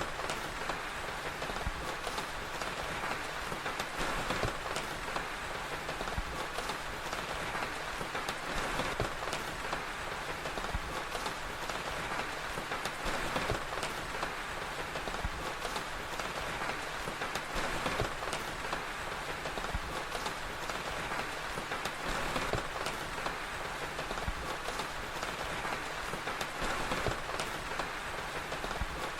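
Steady rain ambience with small crackles and pops of a crackling fire scattered through it.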